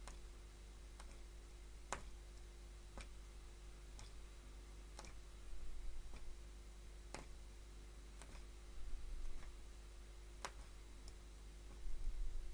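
Punch needle clicking as it is pushed through woven fabric, one sharp click about every second or two, with a few soft rustling bumps of handling in between. A steady electrical hum runs underneath.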